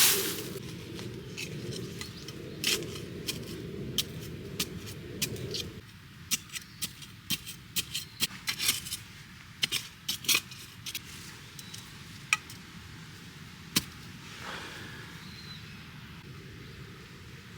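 Irregular sharp clicks and light clatter of small objects being handled, over a low steady rush that cuts off abruptly about six seconds in.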